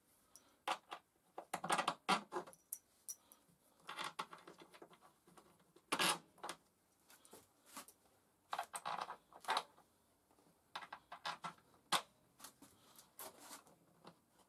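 Irregular scraping, rustling and clicking handling noises, in short bursts with pauses between them.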